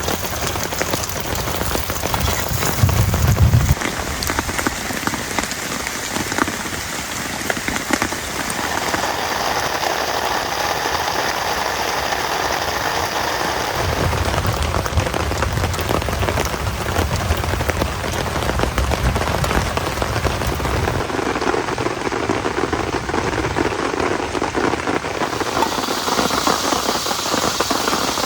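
Steady heavy rain, dense with individual drop hits. A low rumble comes in about three seconds in and again for several seconds from about halfway.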